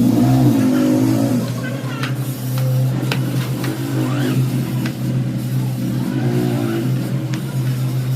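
Steady low machine hum, with men's voices and a few sharp knocks.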